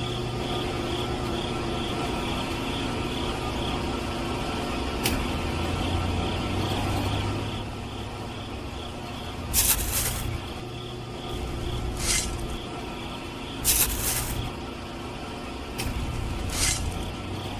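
A small motor humming steadily, with four short noisy bursts spaced a couple of seconds apart in the second half.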